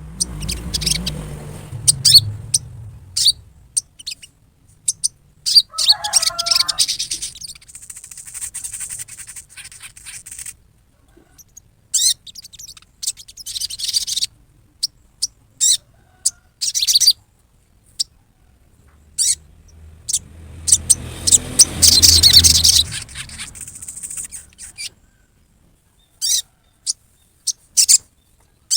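Sogon bird giving its harsh 'riwikan' chatter: clusters of short, sharp, high-pitched calls broken by pauses. Two louder, rougher bursts come about a second in and again around twenty seconds in.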